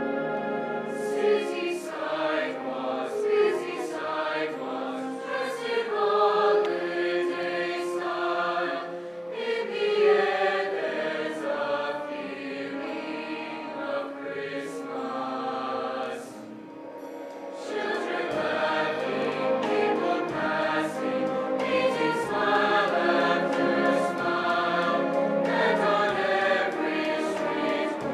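A choir singing a held, sustained choral piece, with a short lull between phrases a little past halfway.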